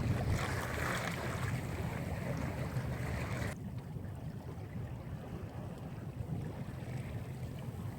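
Wind buffeting the microphone and water rushing along a small sailboat's hull, a steady low rumble with hiss; about three and a half seconds in the higher hiss drops away and the low rumble carries on.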